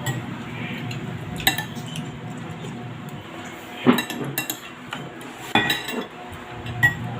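Cutlery clinking against plates and bowls during a meal: several sharp separate clinks, a second or more apart.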